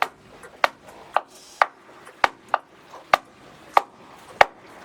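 Sharp knocks repeating at a steady pace, about three every two seconds.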